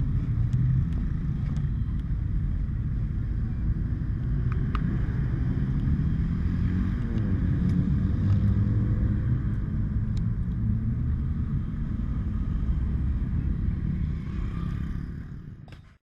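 Steady low rumble of a motorcycle running, with a faint rise in pitch about halfway through, fading out near the end.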